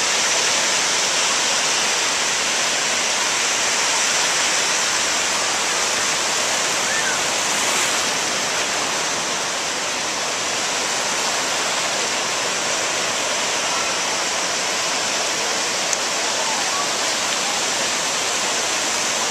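Steady rush of ocean surf washing up on a sandy beach, an even wash of water noise with no single wave standing out.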